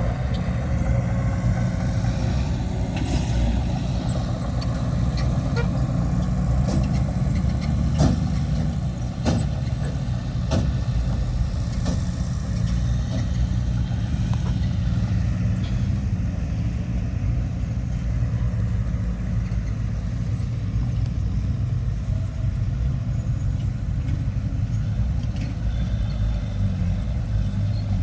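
Heavy diesel earthmoving machinery running with a steady low engine drone, and several sharp clanks in the first half.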